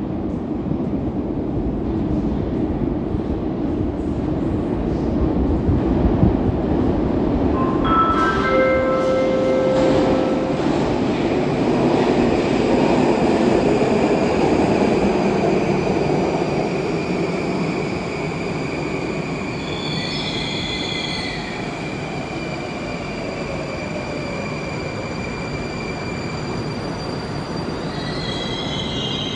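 Moscow Metro train moving along the platform: the rumble of its wheels on the rails builds over the first few seconds and eases in the second half. Steady high-pitched wheel squeals and whines sound over it several times, some gliding in pitch.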